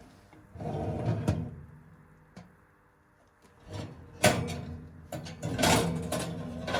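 Household handling sounds: scraping and rustling, a small click, and a sharp knock about four seconds in, like things being moved, set down or a drawer being worked.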